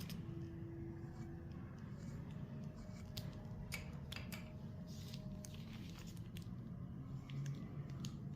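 A pen nib scratching and clicking faintly on paper in short, irregular strokes over a low, steady hum.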